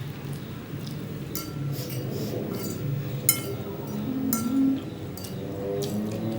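Eating utensils clinking against a bowl as someone eats: a run of sharp clicks, some with a short ring. A brief low hum of a voice comes a little past the middle and is the loudest moment.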